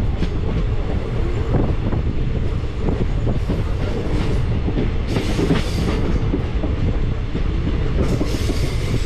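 Express train running at speed, heard from inside a sleeper-class coach: a steady wheel-and-rail rumble with clickety-clack over the rail joints. A rush of hiss swells about five seconds in and again near the end.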